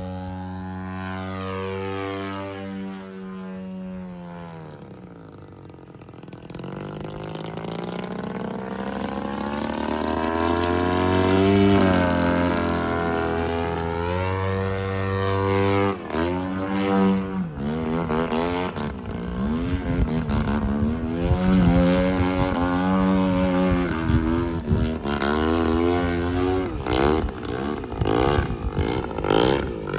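Radio-controlled Sukhoi model airplane's motor in flight: a steady tone that falls in pitch and fades a few seconds in, then grows louder again. From about halfway on, its pitch sweeps up and down again and again.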